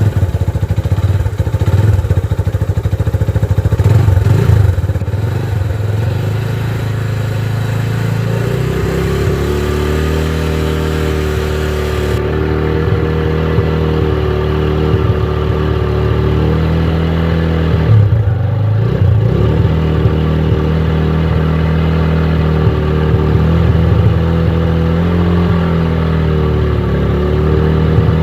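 Motorcycle engine running just after being started: rough and loud with revving for the first few seconds, then settling to a steady idle with a couple of small dips in pitch.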